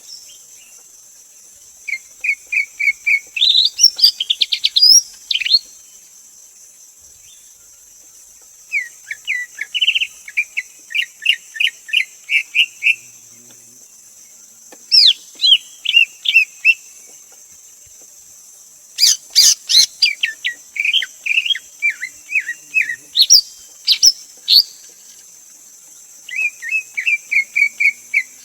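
Greater green leafbird calling in phrases of rapid, sharp chirping and whistled notes, each phrase lasting one to four seconds with pauses between; five phrases in all. A steady high hiss runs underneath.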